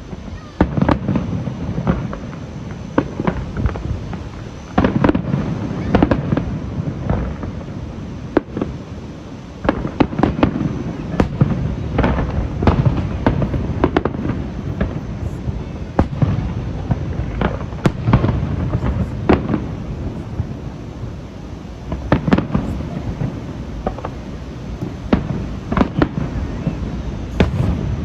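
Aerial fireworks display: a rapid, continuous barrage of bursts and sharp crackling reports over a steady low rumble of booms.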